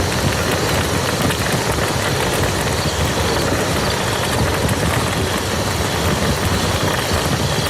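Steady rain falling on muddy ground: a dense, even patter of many small drop impacts.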